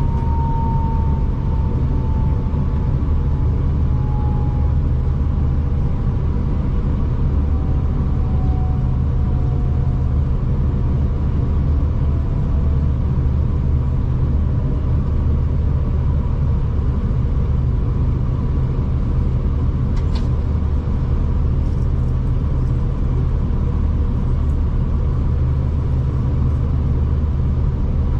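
V/Line diesel passenger train running, a steady low engine drone and rumble, with a thin whine that slowly falls in pitch over the first ten seconds or so. A brief click about twenty seconds in.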